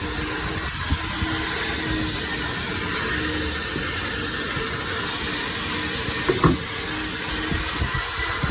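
Steady hiss of water spraying during a car wash, with a low rumble underneath and one short louder sound about six and a half seconds in.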